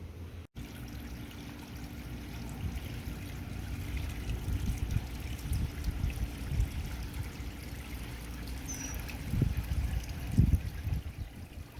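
Water trickling steadily outdoors, with low wind rumble on the microphone.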